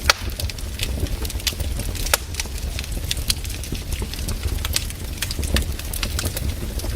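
Wood fire in a fireplace crackling, with sharp, irregular pops over a steady low rumble. The loudest pop comes right at the start.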